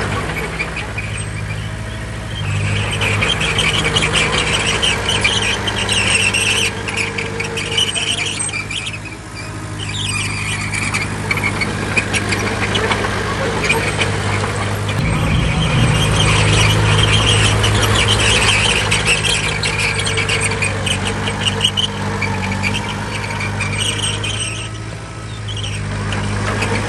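Bulldozer's diesel engine working, with high-pitched squealing over fast clanking from its steel crawler tracks. The squeal fades twice, about a third of the way in and near the end, and the engine gets louder about halfway through.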